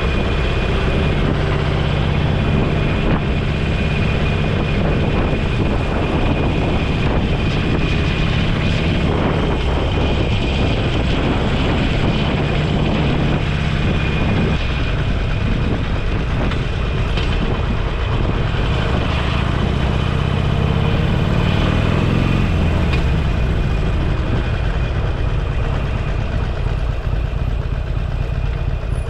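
Motorcycle engine running under way, with steady wind and road noise. The engine note holds steady, drops about halfway through, then climbs in a long rise as the bike accelerates.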